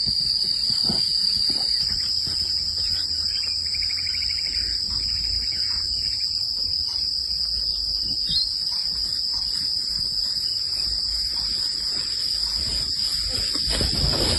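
Evening insect chorus: a steady, high-pitched chirring that runs on without a break.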